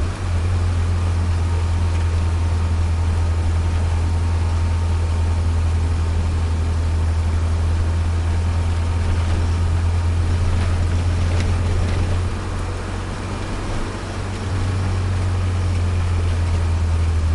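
A Nissan Micra's turbocharged engine and road noise heard from inside the cabin while driving with the throttle closed, the engine at about 2,000 to 2,600 rpm: a steady low drone. It eases off briefly about twelve seconds in, then comes back.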